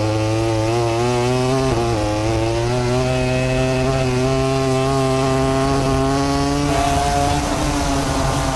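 MotoGP racing motorcycle's 1000 cc four-cylinder engine running at high revs. The pitch holds fairly steady with small wobbles, breaks briefly about two seconds in, and changes again about seven seconds in.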